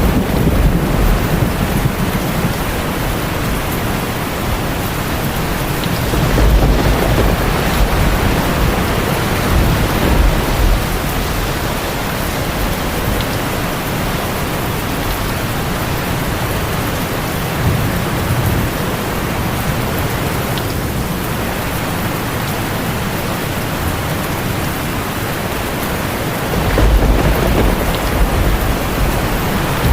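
Heavy rain falling steadily on a tin roof, with low rolls of thunder rumbling in several times: at the start, about six seconds in, around ten and eighteen seconds, and near the end.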